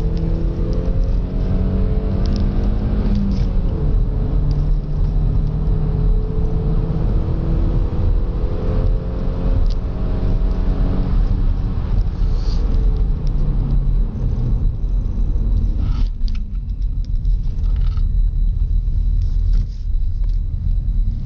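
Opel Astra 1.6 16V four-cylinder engine heard from inside the cabin under hard acceleration, its note rising with revs. About three seconds in a gear change drops the pitch, then it climbs again for several seconds. Around eleven seconds in the rising note ends and it settles into a steady low rumble of engine and road.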